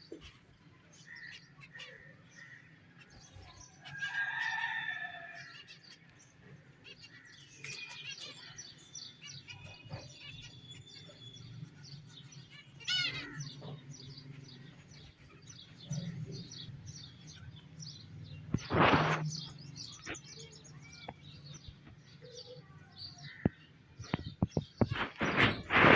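Cage birds chirping and calling: many short chirps, a few warbled calls and a quick rising trill about halfway. There are short, louder rustles about two-thirds through and several near the end.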